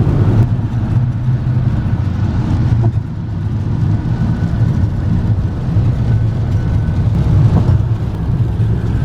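A car's engine and road noise while driving, a steady low drone.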